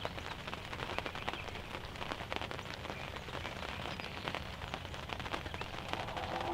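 Steady rain, with many irregular drops ticking sharply on a nearby surface.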